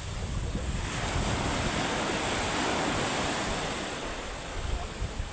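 Surf washing onto the beach with wind buffeting the microphone, the sea running rough ahead of a typhoon.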